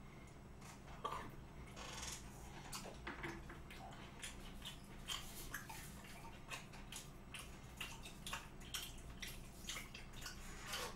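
Close-miked chewing of raw beef sashimi: faint, wet mouth smacks and small clicks scattered throughout, with light taps of metal chopsticks.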